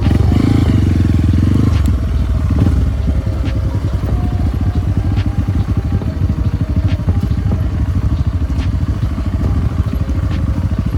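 Off-road trail motorcycle engine running under load, revving hard for about the first two seconds, then dropping to lower, steady revs.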